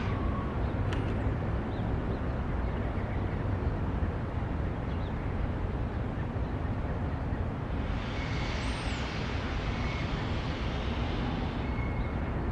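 SEPTA Regional Rail electric train running through the station: a steady rumble at an even level, with brief high chirps near the start and about two-thirds of the way in.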